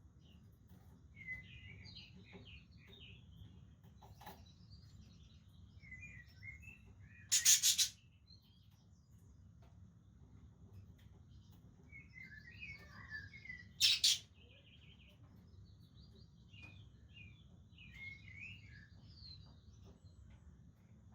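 Budgerigars chattering, with quick warbling chirps throughout. Two loud, harsh bursts break in, one about a third of the way in and one about two-thirds of the way in.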